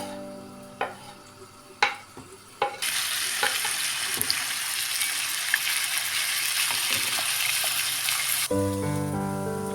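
A few sharp clicks of a utensil against the pan, then food sizzling loudly in hot oil from about three seconds in. The sizzling cuts off abruptly near the end.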